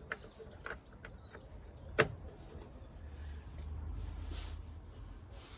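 Light clicks and handling noises from plastic door-card trim clips, with one sharp snap about two seconds in.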